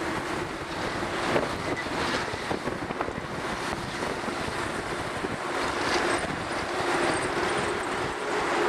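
Strong wind buffeting the microphone in uneven gusts, with a faint steady drone underneath.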